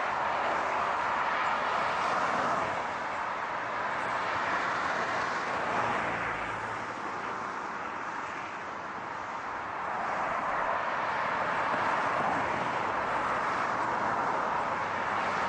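Road noise of moving cars: a steady hiss of tyres and wind with no clear engine note, easing a little about halfway through and building again.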